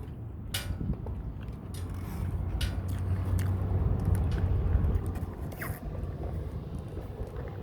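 A person biting and chewing a McDonald's ranch snack wrap, with a few sharp clicks. Under it runs a steady low vehicle rumble that grows louder in the middle and then eases off.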